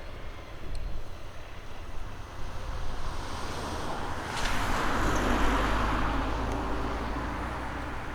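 A light aircraft engine's rushing drone swells as it passes close, loudest around the middle, with a low rumble underneath, then slowly fades.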